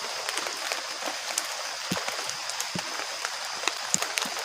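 Steady rain falling, with many scattered sharp drips striking close by over the continuous hiss.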